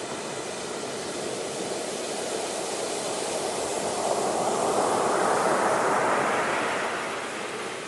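Ocean waves on a shore: the wash rises to a peak about five seconds in, then falls away.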